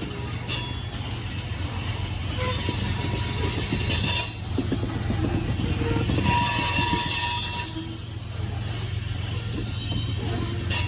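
Freight cars of a long rock train rolling past with a steady low rumble, with wheel flange squeal now and then, loudest a little past the middle.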